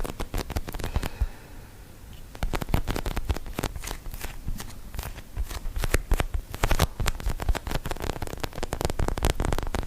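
Close-miked chewing and mouth sounds of someone eating: a dense run of sharp, wet crackling clicks, easing off for about a second near the start and then carrying on.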